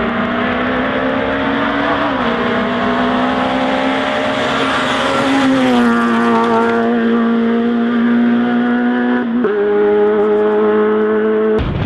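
Rally car engine held at high revs at speed, its pitch nearly steady with small shifts. The note drops slightly about five to six seconds in, where it is loudest. It is cut off just before the end by a different, rougher engine sound.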